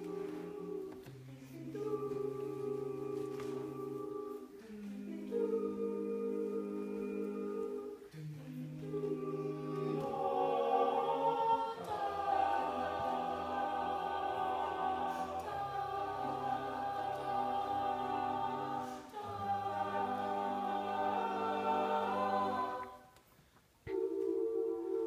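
All-male a cappella group singing a wordless chordal introduction: held chords over a sung bass line, changing every few seconds, with a short break about 23 seconds in before the next chord.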